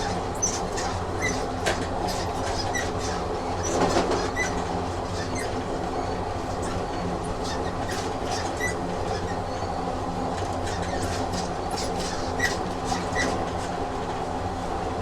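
A train sound effect: a train running on rails, a steady rumble and hum with scattered sharp clicks from the wheels.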